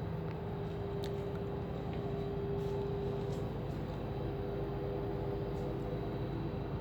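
Ship's machinery running steadily: a constant low rumble with a steady hum over it.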